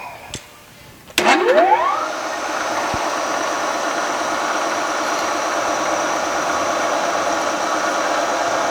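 Milling machine spindle switched on about a second in, its motor winding up quickly in pitch and then running steadily at speed.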